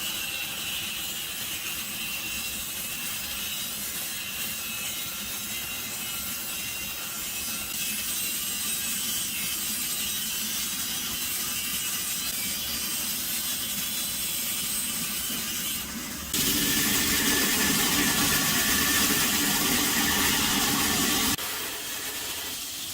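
A saw cutting through a forge-welded steel bar to check the weld, a steady grinding, scraping noise. It gets louder about 16 seconds in and drops back about 21 seconds in.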